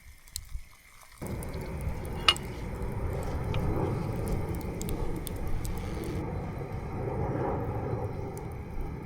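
Steady watery noise that begins abruptly about a second in, with a single sharp click a second later.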